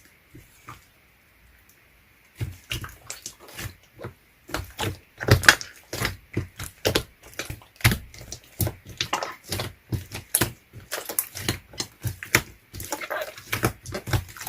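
Close-up eating sounds: irregular crunching bites and wet chewing of frozen ice cream, starting about two seconds in and going on several times a second.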